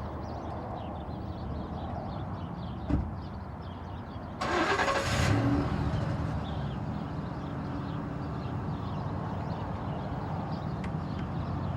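An engine running steadily, with a single knock about three seconds in and a brief loud rushing surge about four and a half seconds in.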